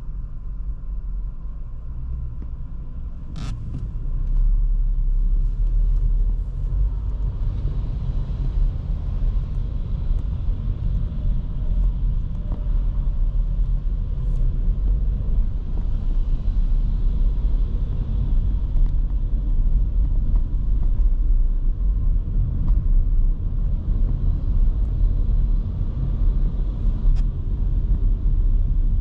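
Škoda Kamiq 1.0 TSI three-cylinder turbo petrol car on the move, a steady low engine and road-noise rumble that gets louder about four seconds in. A single sharp click comes just before the rise.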